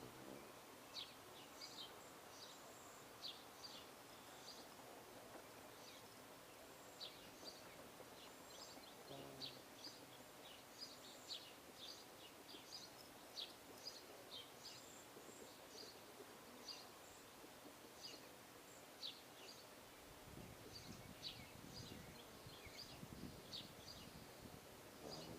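Faint, frequent short chirps of small birds over a steady background hiss. A low rumble comes in about twenty seconds in.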